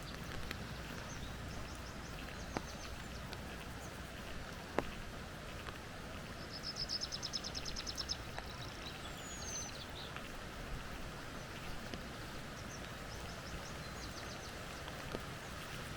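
Forest birds calling over a steady hiss of water: a rapid trill of high notes about seven seconds in, a short falling whistle just after, and scattered chirps, with a few sharp ticks in between.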